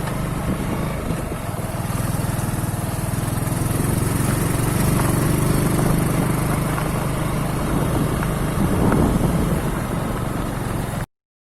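An engine running steadily, a little louder in the middle, then cut off abruptly near the end.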